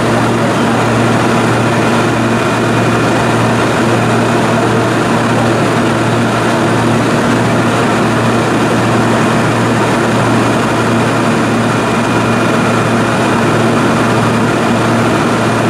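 Cabin noise of a propeller airplane in flight: a loud, steady engine drone with a low hum that never changes.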